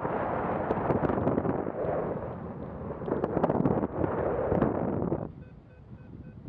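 Wind buffeting the microphone of a Garmin VIRB action camera, a loud rough rumble with crackling pops, which drops away abruptly about five seconds in. Faint, evenly repeated short beeps remain after it.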